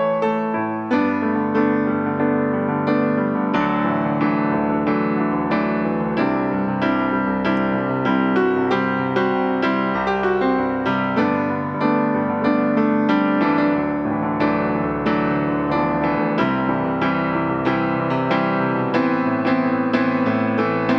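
Instrumental piano music, chords and melody played at a moderate steady pace, with no singing.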